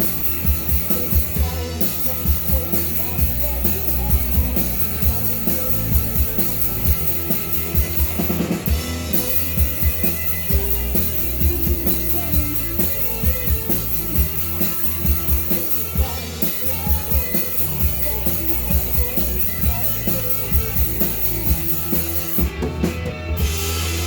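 Live rock band playing a song: a drum kit keeps a steady beat under electric guitars. Near the end the cymbals drop out briefly.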